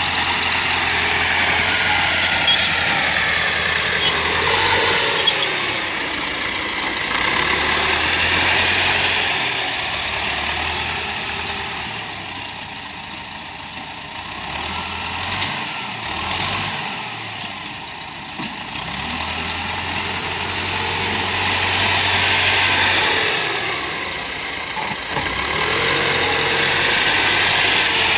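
T-40 wheeled tractor's diesel engine working, its revs and loudness rising and falling several times; it eases off in the middle and picks up again toward the end.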